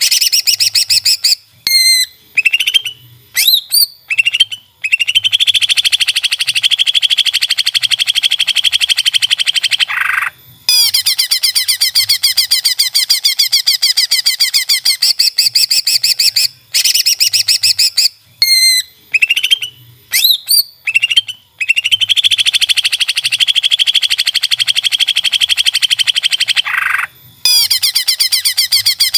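Cucak ijo (leafbird) singing loudly: long, fast trilled phrases broken by short chirps and whistled notes, with brief gaps between phrases. It is a recorded masteran song on a loop, the same sequence coming round again about 16 seconds in.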